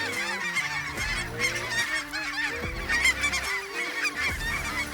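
A large flock of snow and Ross's geese calling over the decoys: a dense, continuous chorus of many overlapping high-pitched honks.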